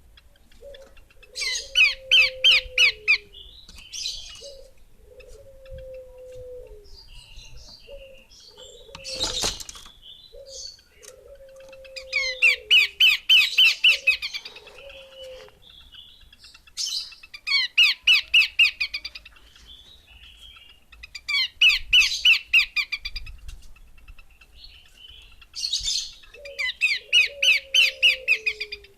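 Female Horsfield's babbler calling: loud bouts of fast, chattering notes, each about two seconds long, repeated every four to five seconds, with short lower falling whistles between the bouts. A single sharp click about nine seconds in.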